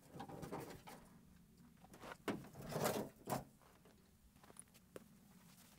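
Mesquite firewood and rocks being handled at a campfire: rustling with knocks and scrapes, in two spells, the louder one about two to three and a half seconds in, with a few single clicks.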